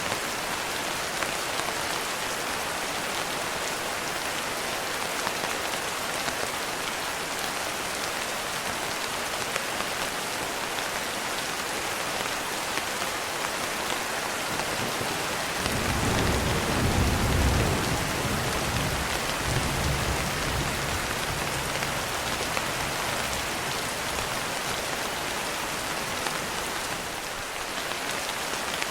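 Steady rain falling in an even hiss. About halfway through, a low rumble of thunder comes in suddenly and fades away over several seconds.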